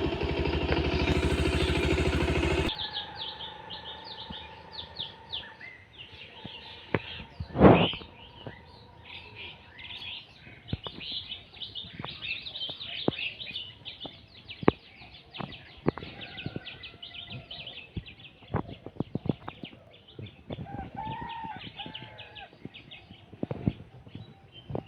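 Many small birds chirping and twittering in quick, short high notes, with one louder call about eight seconds in. For the first few seconds a loud motor-like noise, likely a passing motorcycle, covers them, then cuts off suddenly.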